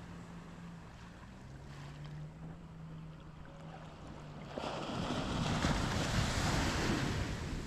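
Surf on a beach: a low, steady engine hum from a passing boat over gentle water, then a wave breaks and washes up the sand a little past halfway, much louder, easing off near the end.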